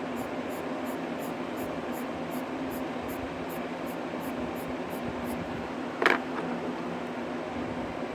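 Electric fan running steadily with a low hum, over faint, even colored-pencil strokes on paper at about three a second that stop after about five seconds. A single sharp click a little after six seconds in.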